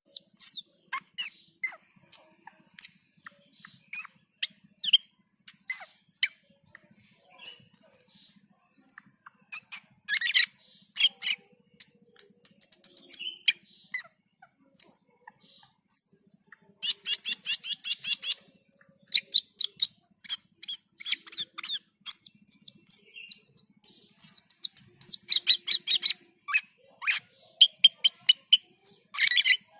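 Cucak keling bird in full song ('gacor'): a fast run of sharp, high chirps and whistled notes broken by dense, harsh rattling chatters.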